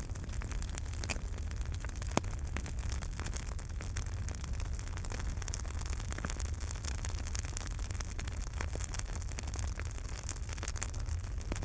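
Wood fire in a fireplace burning steadily, with a low rumble of flames under irregular sharp crackles and pops, a few louder snaps among them.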